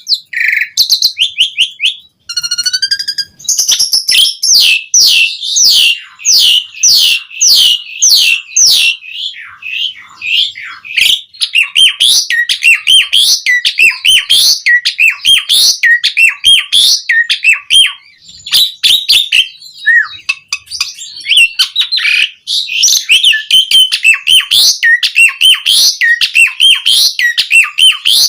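Asian pied starling (jalak suren) singing a long, rapid chattering song of quick downward-sliding notes, in the busy 'gacor' style full of varied phrases. There are short breaks about two seconds in and again near eighteen seconds.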